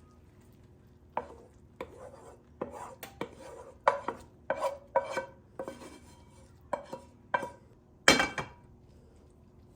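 Kitchen utensils knocking and clinking against dishes, about a dozen separate knocks, some ringing briefly, the loudest about eight seconds in.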